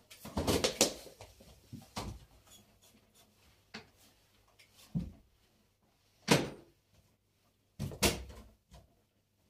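Scattered knocks and clatters of household objects being handled and set down during cleaning, in irregular bursts with the sharpest knock about two-thirds of the way through.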